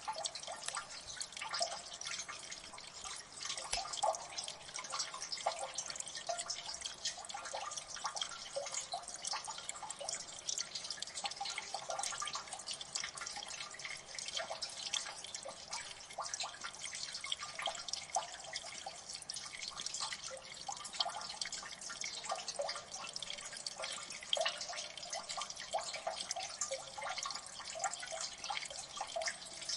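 Water dripping steadily in a gully: many overlapping drips, small splashes and plinks in quick succession over a soft hiss of running water.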